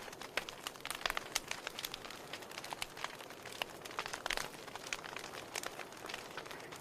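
Wood fire crackling in a fireplace: irregular sharp pops and snaps over a soft steady hiss, with a few louder pops about four seconds in.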